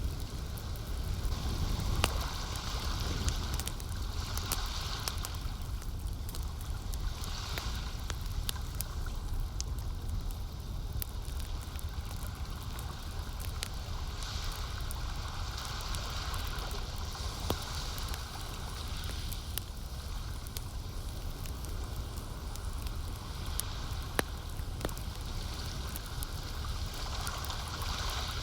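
Campfire crackling with scattered sharp pops, over lake water lapping in gentle swells that come and go every two or three seconds, with a steady low rumble underneath.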